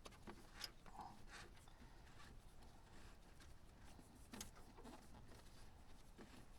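Near silence, with a few faint scattered clicks and light rubbing from hand work on parts.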